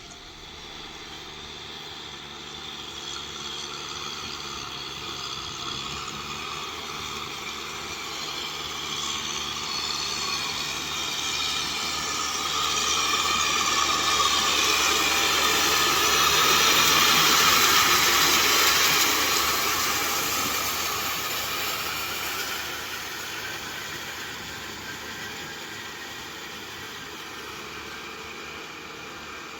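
Kubota M6040SU tractor's diesel engine running steadily with a rotavator tilling, the engine lines joined by a broad rushing hiss. It grows louder to a peak a little past the middle, then fades as it moves away.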